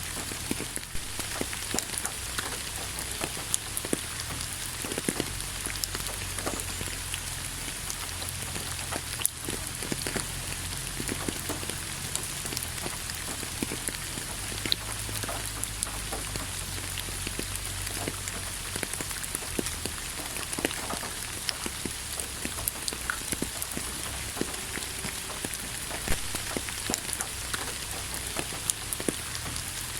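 Steady rain falling on a surface, a continuous hiss dotted with the ticks of individual drops striking close by.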